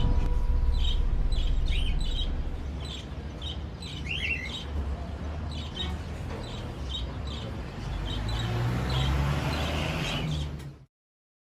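Birds chirping in short repeated notes, with one quick twittering glide about four seconds in, over a steady low rumble; the sound cuts off suddenly near the end.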